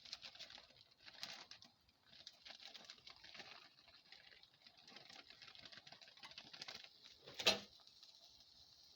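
Omelet egg mixture sizzling faintly in butter in a frying pan, a fine steady crackle. A single sharp clack sounds about seven and a half seconds in.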